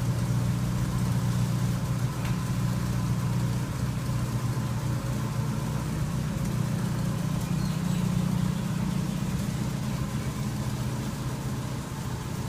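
Car engine running at a steady low hum.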